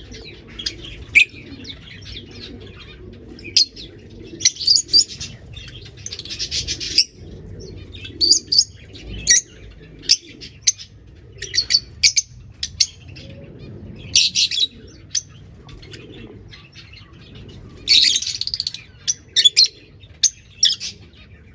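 Lovebirds and finches chirping and chattering: many short high calls throughout, with several denser bursts of chatter, over a low steady background rumble.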